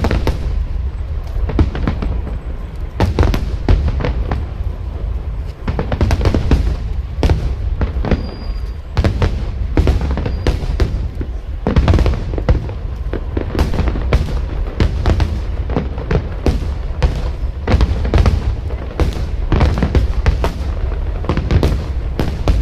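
Fireworks display: a rapid, continuous barrage of booming aerial shell bursts and crackles, several a second, overlapping with a low rumble.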